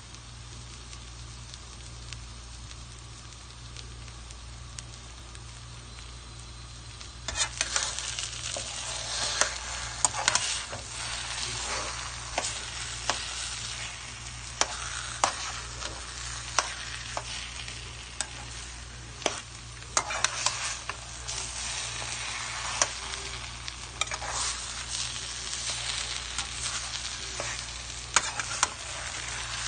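Taro leaves and shrimp sizzling as they fry in a pan, with a slotted spatula scraping and tapping against the pan as the mix is stirred. The sizzling is soft at first and grows much louder about seven seconds in.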